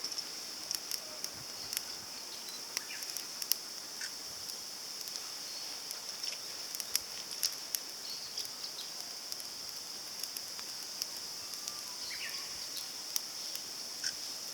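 Small kindling fire crackling in a compact titanium fire grill as it catches, with irregular sharp pops and ticks. A steady high insect buzz runs underneath.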